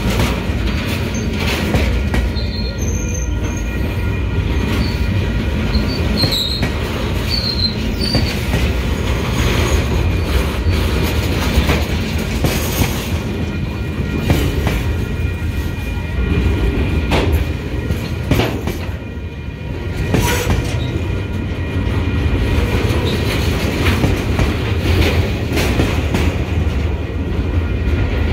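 Empty freight flatcars rolling past on the rails, wheels clicking over rail joints, with a steady high squeal from the wheels on the track.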